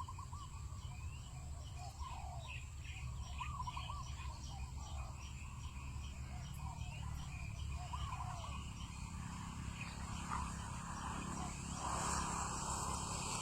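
Wild birds chirping and calling outdoors: short repeated arched notes, over a steady low background rumble, with a rustling hiss near the end.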